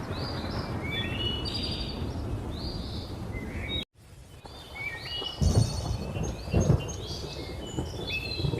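Thunder rumbling low under many birds chirping and calling. About four seconds in, all sound cuts out for a moment, then two louder claps of thunder rise and fade a second or so apart while the birds keep calling.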